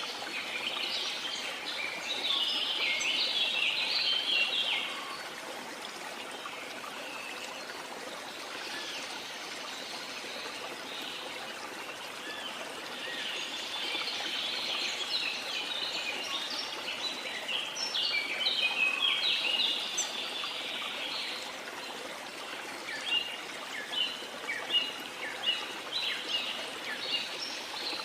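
Small birds chirping and twittering in busy bursts, with a run of quick separate chirps near the end, over a steady wash of sea water.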